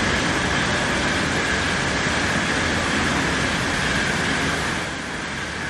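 Sanyo Shinkansen train running through the station: a loud, steady rush of wheel and air noise that eases off near the end.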